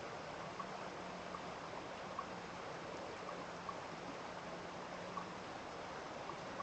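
A stream running steadily, with faint short plinks now and then.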